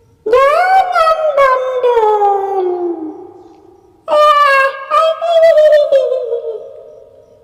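Two long, eerie howls used as a ghost's wail. The first rises briefly and then slides slowly downward, fading out over about three seconds. The second starts about four seconds in, wavers at a higher pitch and fades away near the end.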